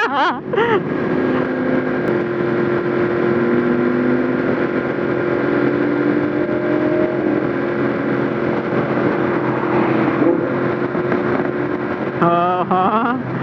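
Yamaha MT-10 motorcycle with an SC Project exhaust cruising at a steady highway speed; its engine note holds nearly level with small rises and falls in pitch, over a steady rush of noise. Brief talk can be heard right at the start and about a second before the end.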